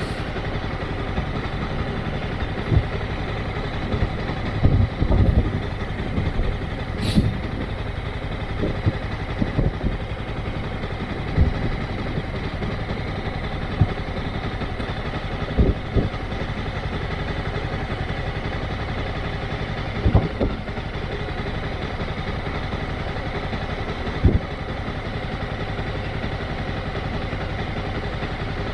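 Motorcycle engine running steadily at low revs, with a low thump every few seconds and a brief hiss about seven seconds in.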